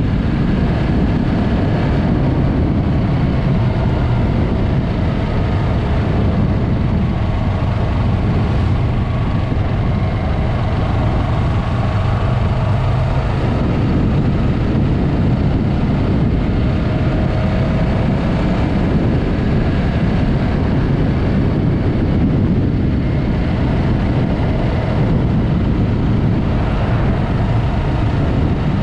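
Yamaha MT-03's parallel-twin engine and Mivv aftermarket exhaust running while the bike is ridden, its note drifting slowly up and down. It sits under a steady rush of wind on the microphone.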